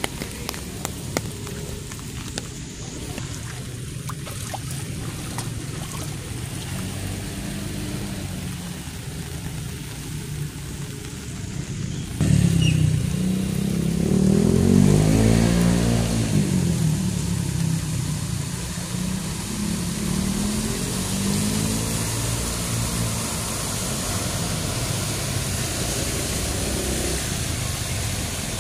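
A motor vehicle drives past, coming in suddenly about twelve seconds in, loudest a few seconds later, then fading, with a smaller second pass shortly after. Before it, a steady patter of rain with light ticks of drops on an umbrella.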